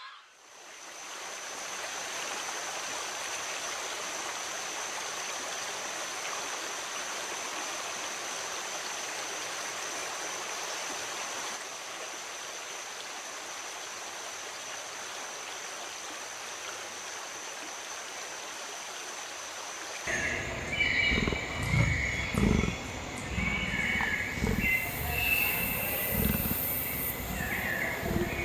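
A steady rushing hiss with a thin high whine over it, then, about twenty seconds in, loud rough animal calls in repeated bursts.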